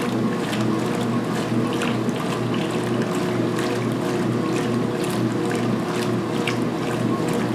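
2016 Speed Queen washer agitating a load of towels at high speed in the main wash: a steady motor and drive hum with water sloshing and many small irregular clicks from the agitator.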